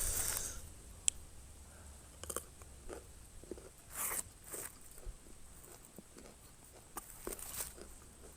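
A person biting and chewing a mouthful of fig miang close to the microphone: scattered short crunches and wet smacks, the loudest right at the start and about four seconds in.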